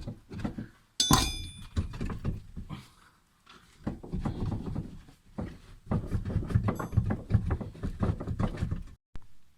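Metal clanging and knocking while a Volvo 960's rear differential is worked loose from its mounts. There is one sharp ringing clang about a second in, then a long stretch of dense knocking and scraping.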